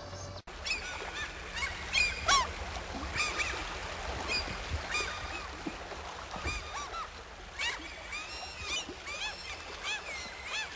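A flock of birds calling over one another: many short, arched, honking calls overlapping without pause. They start abruptly after a brief break about half a second in.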